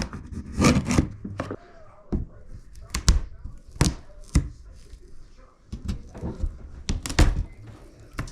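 A run of irregular sharp knocks and clunks, about ten in all, from plastic drain pipe and fittings being worked loose by hand and with tools.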